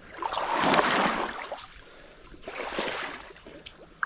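Legs wading through creek water: two sloshing steps, the first about half a second in and louder, the second near three seconds in.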